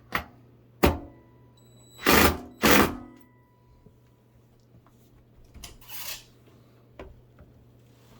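Handling noise while a sewing machine table is being assembled: a couple of sharp knocks, then two short loud bursts of noise about two seconds in, a softer hiss near six seconds and another click, over a steady low electrical hum.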